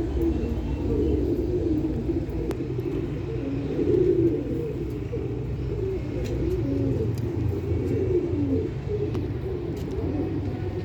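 Several birds calling at once in low, wavering overlapping notes, without a break, over a steady low rumble.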